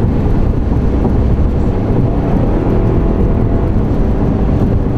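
Steady low rumble of a moving car, wind and road noise.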